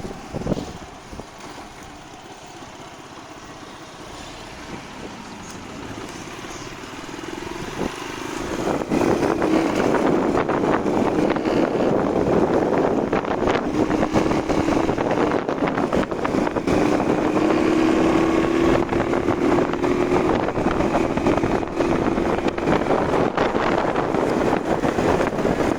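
Motorcycle engine running while being ridden, with wind noise on the microphone; it is quieter for the first several seconds, then gets much louder about eight seconds in and stays loud.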